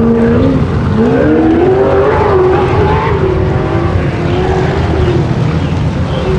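Ultra4 off-road race car's engine revving hard; its pitch drops briefly, climbs steeply about a second in, then rises and falls with the throttle.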